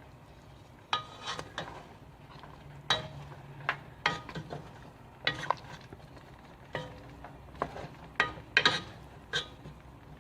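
A metal utensil stirring a pot of beef shank soup, knocking against the pot's side in about fifteen sharp, ringing clinks at irregular intervals.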